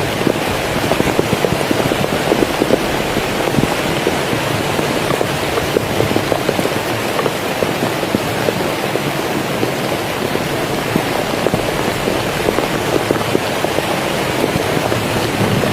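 Heavy rain falling steadily, a dense stream of individual drops striking a surface.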